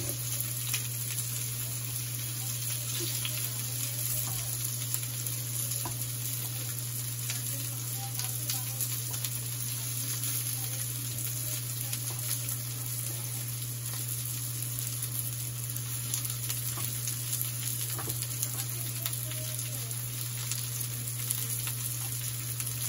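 Chicken kebab patties frying in a pan: a steady sizzling hiss with many small crackles and pops, over a steady low hum.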